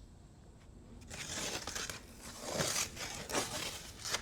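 Packaging being handled, rustling and crinkling in irregular strokes that begin about a second in.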